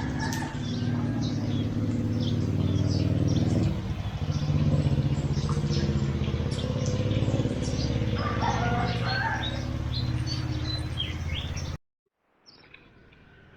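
Small birds chirping again and again over the steady low hum of a motor vehicle's engine, which shifts in pitch about four seconds in. The sound cuts off suddenly near the end.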